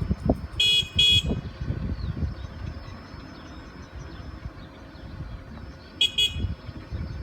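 A road vehicle's horn tooted in two quick short beeps, and a second double toot comes near the end. Passing road traffic rumbles underneath.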